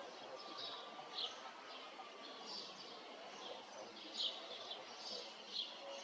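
Small birds chirping in short, high notes every second or so, over a faint steady background hiss.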